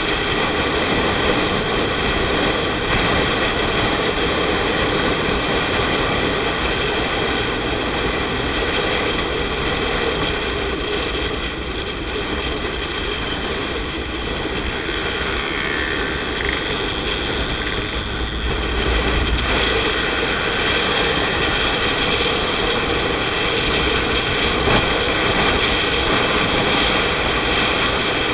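Steady riding noise from a moving motorcycle: the engine's drone mixed with rushing wind. A deeper low rumble swells briefly about two-thirds of the way through.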